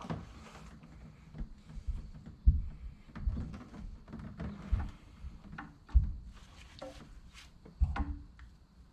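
Irregular knocks and clunks of tools and parts being handled during hydraulic cylinder repair work on a track loader, with a few sharp clicks. The loudest knocks come about two and a half seconds in, about six seconds in and near the end.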